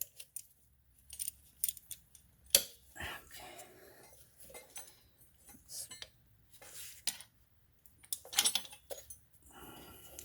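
Metal tools and steel tie rod parts clinking, clicking and scraping while a tie rod boot and its clamp are undone by hand. The clicks are sharp and irregular, the loudest about two and a half seconds in and a cluster near the end.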